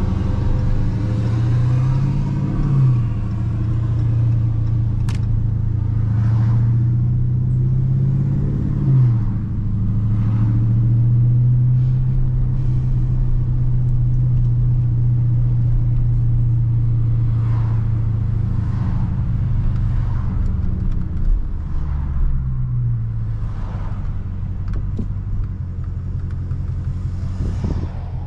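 2019 Dodge Charger Scat Pack's 392 HEMI V8 (6.4-litre) pulling on the road, with engine pitch dropping at gear changes about three and nine seconds in. It then cruises steadily and eases off to a lower drone a little past twenty seconds.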